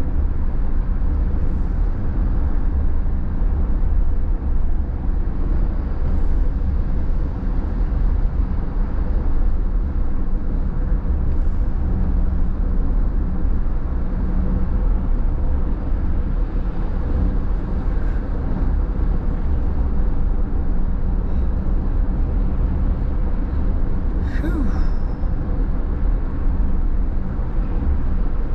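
Steady rumble of a car driving on a wet road, heard from inside the cabin: low road and engine noise with tyre hiss. A brief sharp chirp cuts through once near the end.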